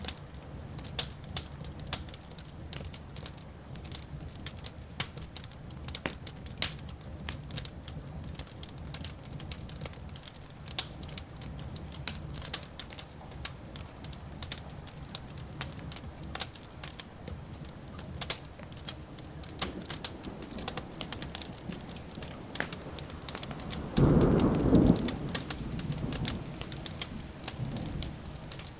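Wood fire crackling with many small sharp pops over a low steady rustle. About two-thirds of the way through, distant thunder begins to rumble, breaks into a loud clap near the end and rolls away.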